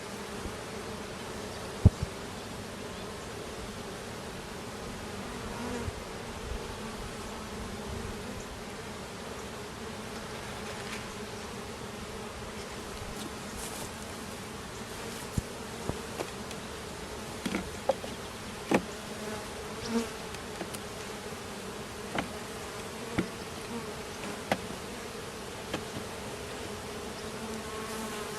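A honeybee colony buzzing steadily around an open hive, a continuous low hum. Occasional sharp knocks and clicks sound over it, one about two seconds in and several more in the second half.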